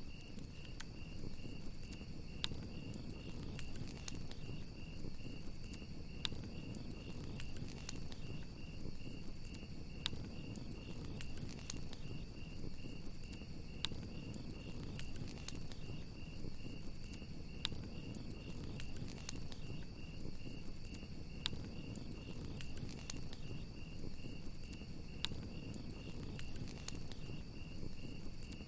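Crickets chirping in a steady, rapid pulsing trill over a crackling campfire, with sharp irregular pops of burning wood and a low rumble from the flames.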